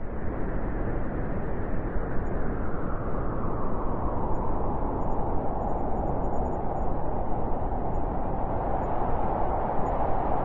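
Blizzard wind blowing hard and steadily, a dense rushing noise with a howl that swells slightly toward the end.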